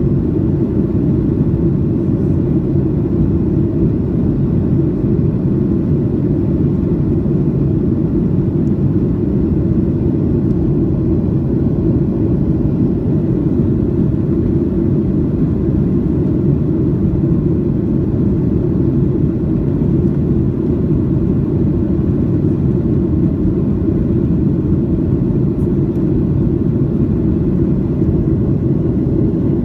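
Steady low rumble of a Boeing 737-800's CFM56 engines and airflow heard inside the passenger cabin in flight.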